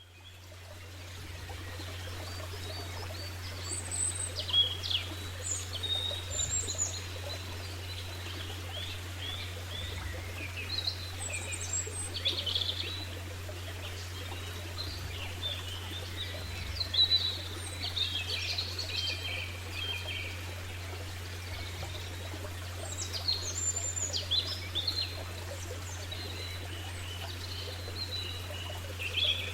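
Birds chirping and singing, with many short calls and trills over a steady low hum. It fades in from silence at the start.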